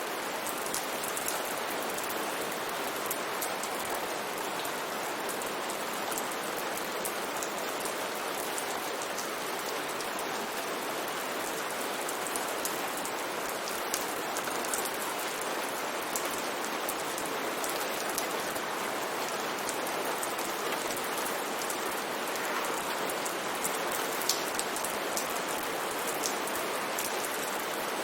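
Steady rain falling on a surface, a dense even hiss with many small drop ticks through it.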